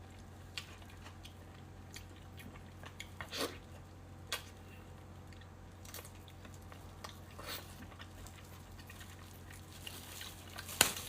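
A person eating close to the microphone: scattered soft chewing smacks and mouth clicks, a few seconds apart, with one sharper click near the end.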